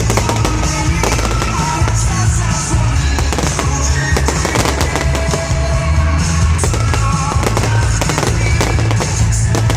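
Fireworks bursting and crackling, many bangs in quick succession, over loud show music with a heavy bass.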